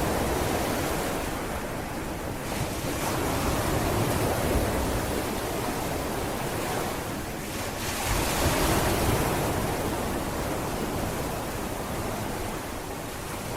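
Sea waves washing onto a beach, the surf swelling and easing in slow surges, with some wind on the microphone.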